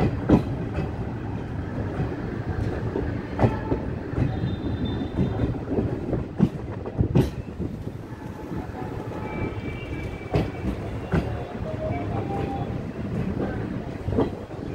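Passenger train pulling out of the station, heard from on board: a steady running rumble with irregular clicks and knocks as the wheels cross rail joints and points.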